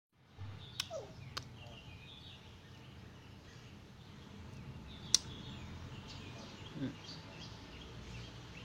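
Faint small-bird chirps and peeps over a steady low hum, with a few sharp clicks, the loudest about five seconds in.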